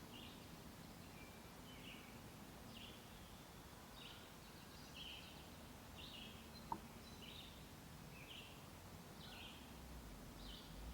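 Faint birdsong: a bird repeating a short high call over and over, roughly once every half to three-quarters of a second, with a single sharp click a little past the middle.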